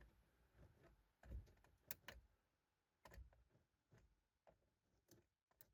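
Faint, irregular clicks and knocks of someone moving about and handling things inside a car at night, about a dozen small sounds spread unevenly with near silence between them.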